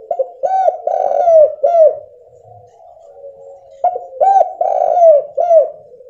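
Spotted dove (tekukur) cooing: two phrases of four or five rounded coos each, about two seconds apart, with a faint low hum between the phrases.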